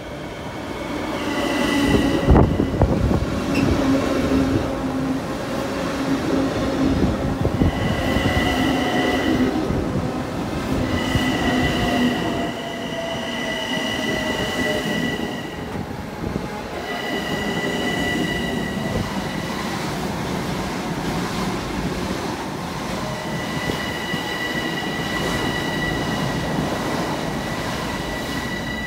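Bombardier M7 electric multiple-unit train rolling close by as it slows into a station: steady rumble of wheels on rail, a sharp knock about two seconds in, and high wheel squeal that comes and goes in several stretches. A motor whine falls in pitch as the train decelerates.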